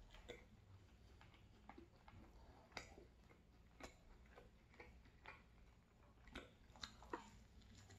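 Faint, closed-mouth chewing of a bite of pizza: soft, irregular wet mouth clicks, roughly one a second.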